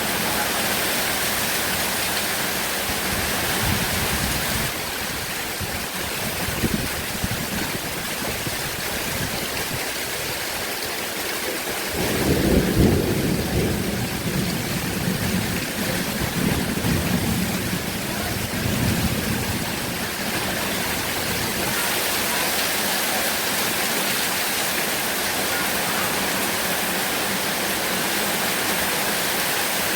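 Heavy rain falling with a steady hiss. Partway through, thunder rumbles low for several seconds in a few swells, then fades back under the rain.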